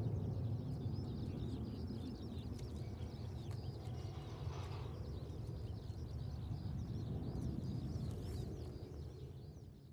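Distant low rumble of a departed Airbus A320's CFM56 jet engines dying away, with many birds chirping over it; the sound fades out near the end.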